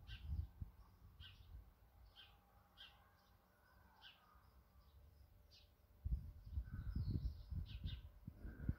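A small bird chirping faintly, short high chirps repeated about once a second. A low, gusty rumble comes in about six seconds in.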